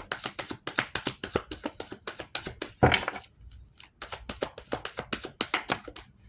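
A deck of cards being shuffled by hand: a quick run of soft taps and slaps, with a louder knock about three seconds in and a short lull just after.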